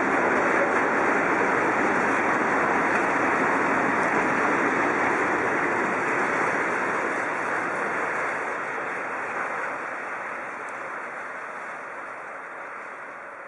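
Freight train wagons rolling past on the rails, a steady rushing rumble that fades away over the last several seconds as the train recedes.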